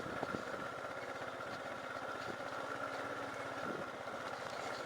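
Vehicle engine idling steadily, with a thin high steady tone running over it.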